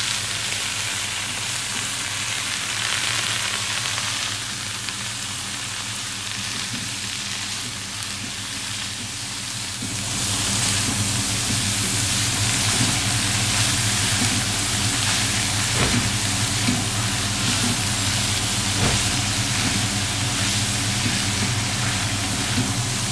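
Shredded cabbage and fried dried catfish sizzling in a hot metal wok over a high flame, turned over with a spatula, with a steady low hum underneath. The frying gets louder about ten seconds in, with a few light knocks of the spatula on the pan.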